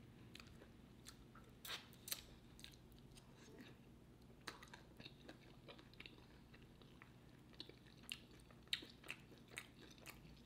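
Faint chewing of a bacon-wrapped stuffed jalapeño, with scattered soft, irregular mouth clicks.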